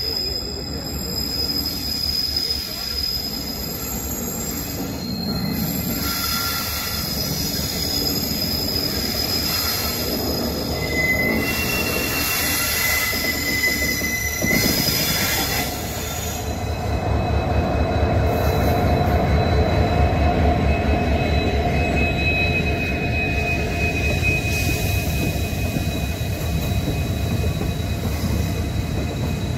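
WDG diesel locomotive hauling an express train into a station, rolling past with its wheels squealing on the rails. From about halfway in, the coaches pass close by with a louder, rhythmic rumble of wheels over the track.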